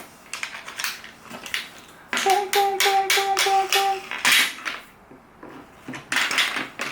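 Plastic toy tool pieces clicking and clattering as they are handled, with a steady buzz broken into short even pulses for about two seconds midway.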